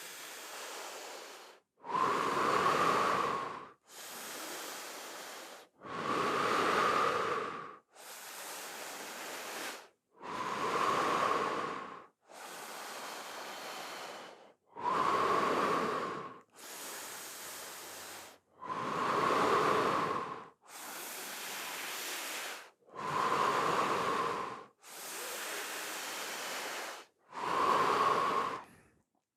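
Deep, rhythmic human breathing: full breaths in and out, each about two seconds long, alternating louder and softer, about seven full cycles. This is an active breathwork round, pumping the breath in and out steadily.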